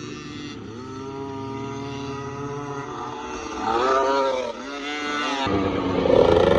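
Small motocross dirt bike engines revving and passing, pitch rising and falling and growing louder, loudest about four seconds in and again near the end.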